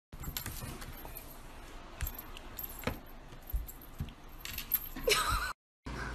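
Small metal objects jangling and clicking on a hard tabletop as a kitten paws and swats at them, with a short wavering sound about five seconds in.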